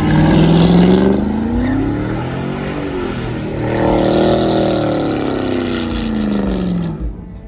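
Loud truck engine revving, its pitch climbing and falling back twice.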